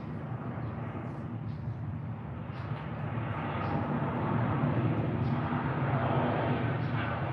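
Engine drone of a passing vehicle, growing steadily louder, with a few faint short bird chirps above it.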